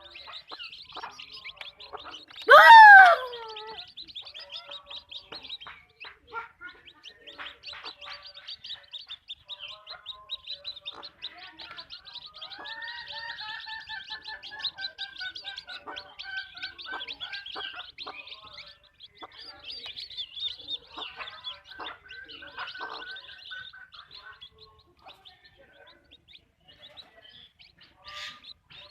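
Backyard hens clucking and calling, with one loud squawk about three seconds in and longer drawn-out calls later. High-pitched chirping runs underneath throughout.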